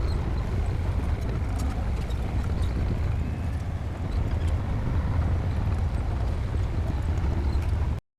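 Bulldozer's diesel engine running with a heavy low rumble, along with faint clicks and clanks; the sound cuts off suddenly near the end.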